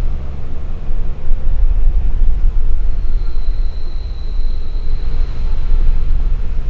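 Low, uneven rumble of a moving vehicle, with a faint thin high tone for a couple of seconds in the middle.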